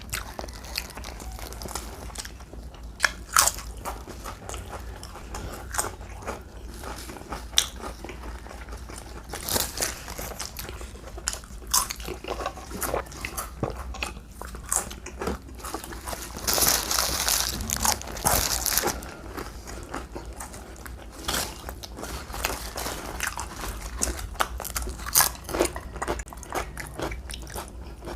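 Close-up eating sounds: bites and chewing with crisp crunches and sharp clicks. A denser, louder crackling stretch comes about two-thirds of the way through.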